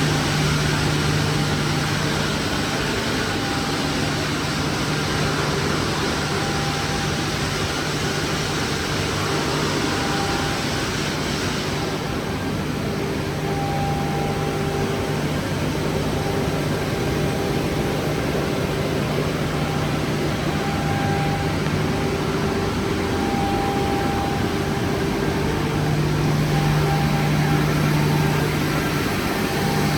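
Holzma Optimat HPP380 CNC beam saw running, a steady machine hum with a constant low tone under a broad hiss. The upper hiss drops away about twelve seconds in while the hum carries on.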